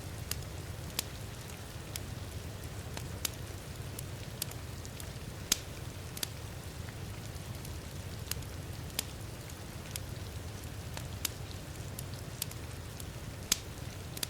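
Crackling wood fire in a fireplace, with irregular sharp pops and snaps, over the steady hiss of heavy rain.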